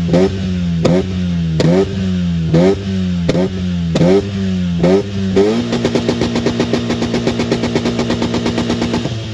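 Car engine revved in quick throttle blips about once a second. About halfway through it is held at a steady high pitch that pulses rapidly, typical of bouncing off the rev limiter, before it drops back.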